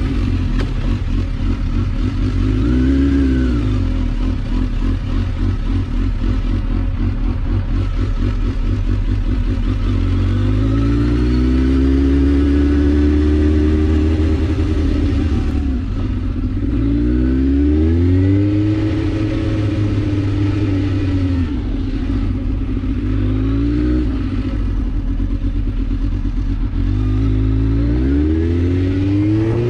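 Suzuki GSX-R1000 sport bike's inline-four engine accelerating in repeated pulls: the revs climb, drop back at each upshift and climb again, several times over.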